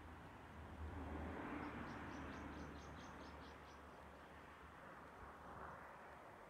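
Quiet outdoor ambience: a soft hiss that swells and fades over a low rumble of wind on the microphone. About one and a half seconds in, a bird gives a quick run of about eight high chirps lasting two seconds.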